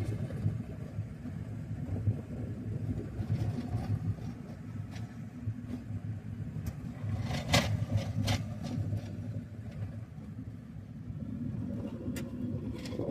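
Road vehicle driving: a steady low rumble of engine and tyres, with a few sharp clicks or knocks, the loudest two a little past halfway.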